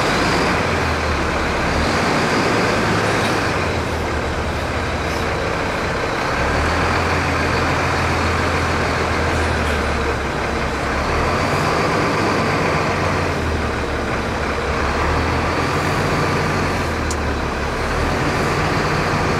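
Fire engine's diesel engine running under a steady wash of road and cab noise, its low hum shifting pitch up and down several times as it changes speed.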